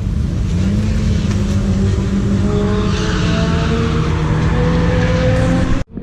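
Supercharged Volvo B230 four-cylinder engine running hard under load, its pitch holding steady and then easing slightly, with tyre noise midway.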